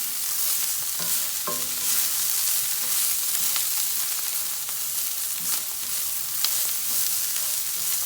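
Cicadas sautéing in olive oil in a frying pan, sizzling steadily, with a few short clicks of a utensil stirring them against the pan.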